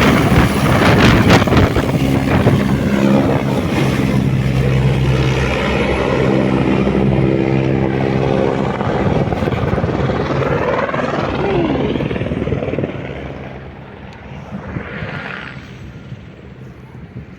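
Helicopter running loudly with a steady low rotor and engine drone. The sound fades markedly about thirteen seconds in.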